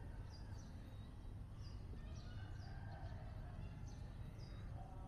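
Small birds chirping in short, high, falling notes, about one or two a second, over a steady low outdoor rumble.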